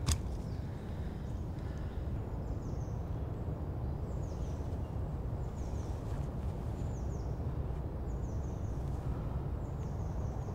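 Outdoor ambience: a steady low rumble, with a small bird repeating a short, high, falling chirp about once a second. A single sharp click right at the start.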